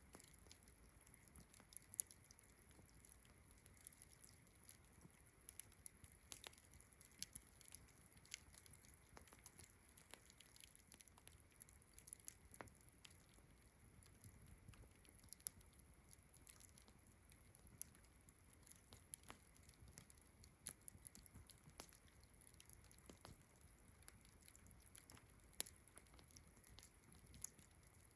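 Campfire crackling faintly with irregular sharp pops and snaps, over a steady high-pitched chirring of distant crickets.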